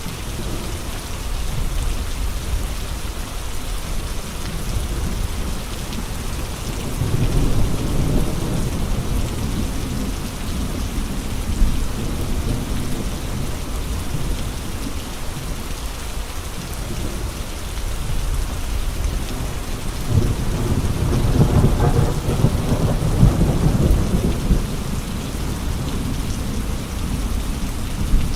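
Steady heavy rain with gusting wind, with two low swells in the storm noise: one about a quarter of the way in and a longer one past two-thirds.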